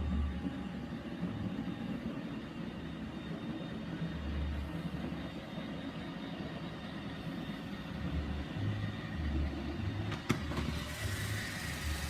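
iRobot Roomba 960 robot vacuum running steadily, with a single sharp click about ten seconds in.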